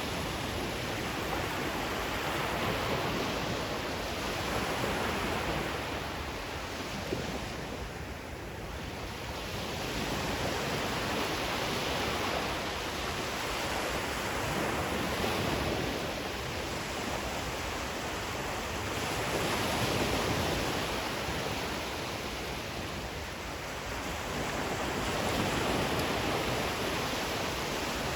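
Ocean waves washing on a shore as a steady rushing noise that swells and eases every three to four seconds.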